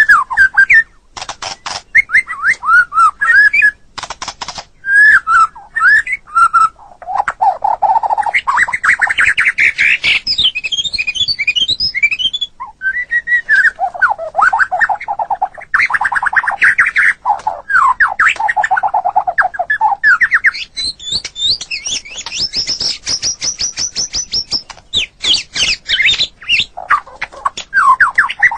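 White-rumped shama (murai batu) singing continuously: a varied song of gliding whistled phrases, fast trills and runs of rapid repeated notes.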